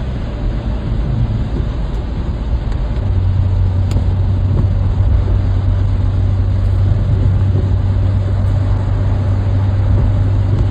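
Steady, loud low rumble of a running vehicle engine. A steady low hum comes in about three seconds in.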